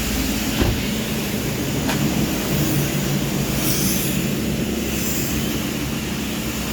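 Vehicle engine running steadily with a low hum, a single knock about half a second in and faint clicks.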